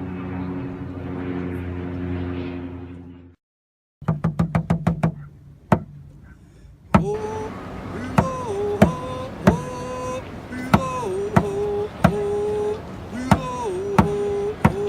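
A propeller plane's engine drones steadily, then cuts off. After a brief quick rattle of knocks, a drum starts a steady beat about every 0.6 s under a voice singing in long held notes that slide between pitches: First Nations drumming and song.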